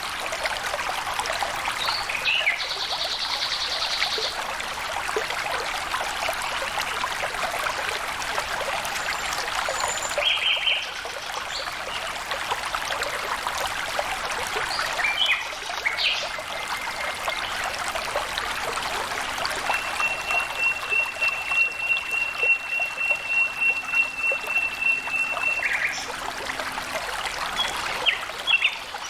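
Flowing water trickling and splashing steadily, with birds chirping now and then over it; about twenty seconds in, one bird gives a long, even, rapid trill lasting some five seconds.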